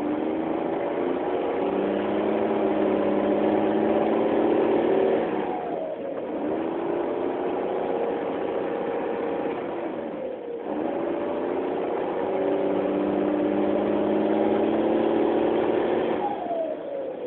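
Mercedes-Benz OH 1621 L bus's turbocharged six-cylinder diesel, running on an open exhaust, pulling up through the gears. The engine note climbs three times, dropping at gear changes about six and ten and a half seconds in, and falls away near the end as the throttle is lifted.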